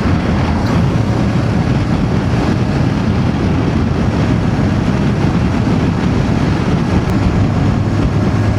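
Voge DS525X parallel-twin motorcycle engine running at a steady, even pace while riding, with a constant low engine hum under road and wind noise.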